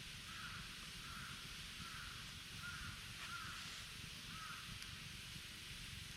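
A crow cawing six times in a row, about once a second, over a steady outdoor hiss, with a few faint snaps from the campfire.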